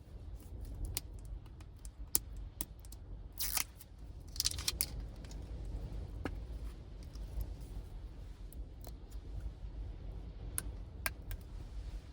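Scattered small clicks and short rustles of objects being handled, over a steady low rumble.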